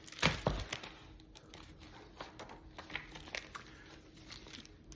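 Paper rustling and small clicks as the pages of a picture book are handled and turned, with one sharper knock just after the start.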